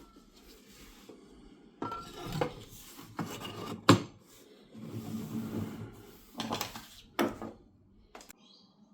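Restored Pede wooden hand coffee grinder being worked, a run of rasping, scraping strokes with a few sharp knocks that stops about 8 s in.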